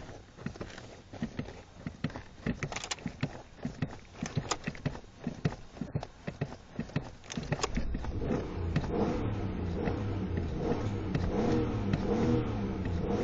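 Irregular clicks and knocks for the first several seconds, then about eight seconds in the Ford Explorer's engine is running steadily at a low speed.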